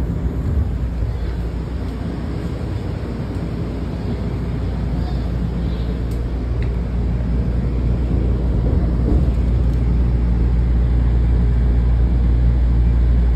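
Steady low rumble and hum of a MARC commuter train heard from inside the car as it rolls along the tracks, growing gradually louder through the second half.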